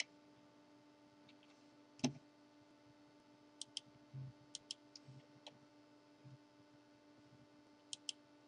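Faint sharp clicks, several in quick pairs, scattered over a few seconds above a low steady hum.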